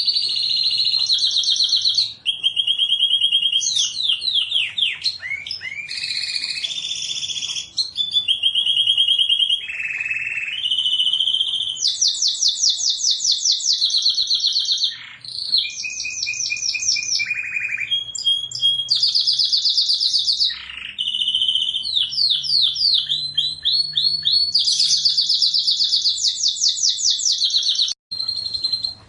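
Domestic canary singing continuously: a varied song of fast rolling trills and held notes, one phrase after another with barely a pause.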